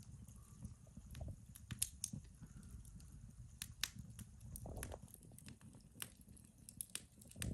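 Fireplace fire crackling, with irregular sharp pops over a low, steady rumble of the flames.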